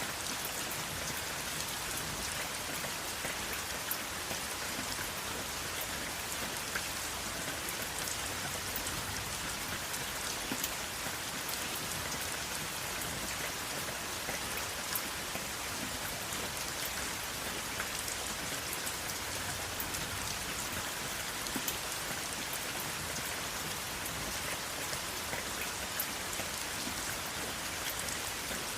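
Steady rain falling, a continuous hiss of rain with many individual drops pattering on a surface, without thunder.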